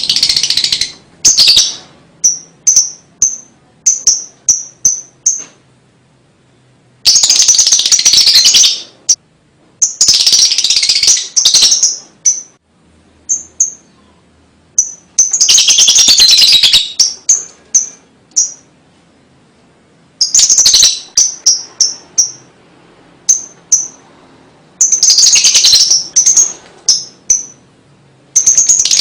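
Lovebird singing its ngekek song: dense, rapid chattering bursts of one to two seconds, alternating with runs of short, high, separate chirps.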